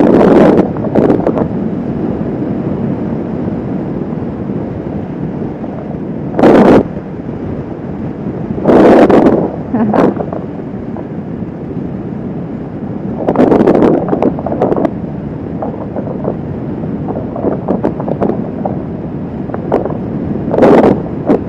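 Wind rushing over the microphone on a moving motorcycle, over steady road and engine noise, with loud gusts of buffeting about five times.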